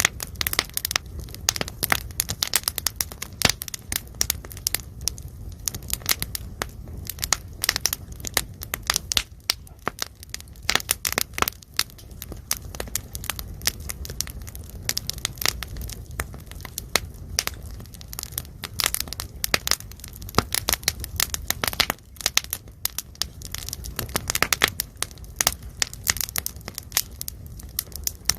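Pork belly sizzling and spattering in its fat on a griddle over a burning pine-wood fire: a dense, irregular stream of sharp pops and crackles over a low, steady rumble, like rain.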